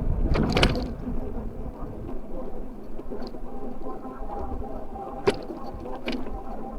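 E-bike in motion: steady tyre and road noise with a faint motor whine, and sharp rattling knocks from bumps about half a second in and twice near the end.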